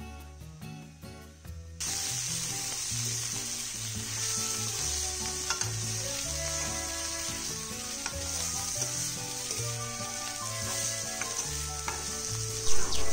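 Pork and banana flower sizzling as they are stir-fried in a kadai, starting suddenly about two seconds in, with the scrape of a metal spoon stirring and a loud knock near the end. Background music plays underneath.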